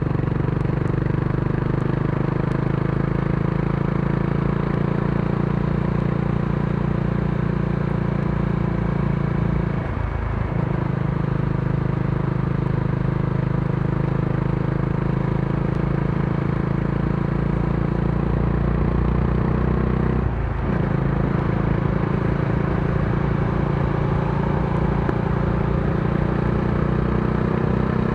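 Modenas Dominar D400's single-cylinder engine running steadily under way, its note briefly dipping twice, about ten and about twenty seconds in.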